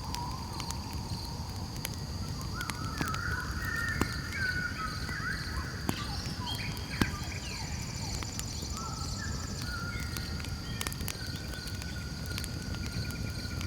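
Campfire crackling with a few sharp pops, over a steady high insect trill and repeated wavering calls of night animals.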